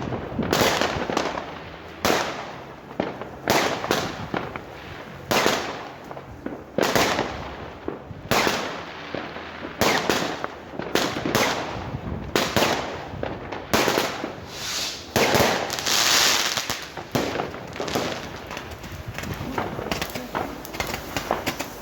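Fireworks and firecrackers going off in a continuous run of sharp bangs and pops, several a second in places, with a longer burst of crackling about two-thirds of the way through.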